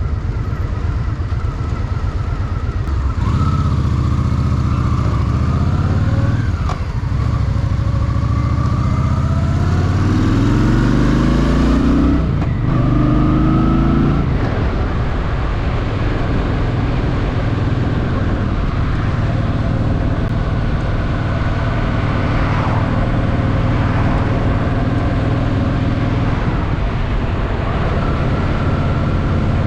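Honda Shadow VT750's V-twin engine ridden through traffic: it runs low and steady at first, then pulls away with its pitch rising, changes gear about midway with another short rise, and then holds a steady cruise.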